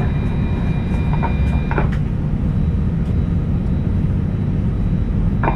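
Steady deep rumble inside an Airbus A320 cabin, with a faint voice over the cabin speakers trailing off about two seconds in.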